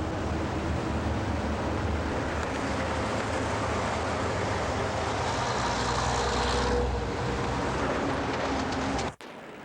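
Steady vehicle noise, engine and road rumble, that cuts off abruptly near the end.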